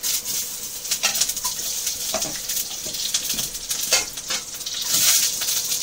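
Stuffed bitter gourds frying in oil in an iron kadai, sizzling steadily. Several knocks and clinks come from a steel spoon and a steel lid being set on the pan.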